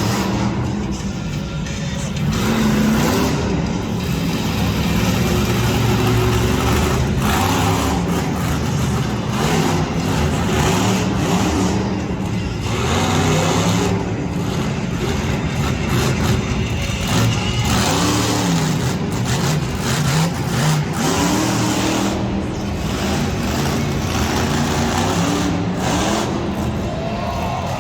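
Monster truck engine revving hard over and over, its pitch climbing and falling, with continuous loud engine noise.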